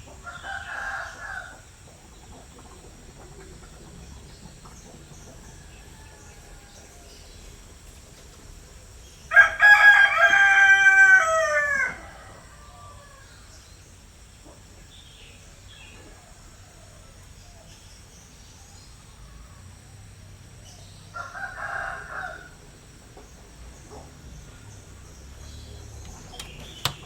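A rooster crowing: one loud crow about nine seconds in, lasting close to three seconds and dropping in pitch at the end. Two shorter, fainter calls come near the start and about two-thirds of the way through, over a low steady background hum.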